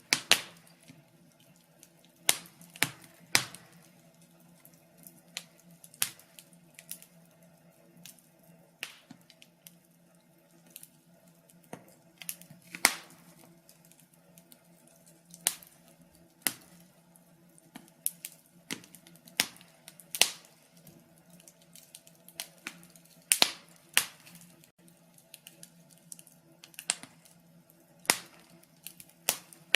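Wood fire crackling in a fireplace: irregular sharp pops and snaps, a few a second, some much louder than the rest, over a faint low hum.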